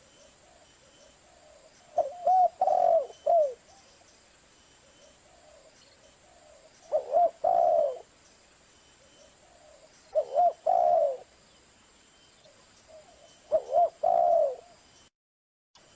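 Spotted dove (tekukur) singing: four cooing phrases, each a couple of short notes followed by a longer coo, repeating about every three to five seconds.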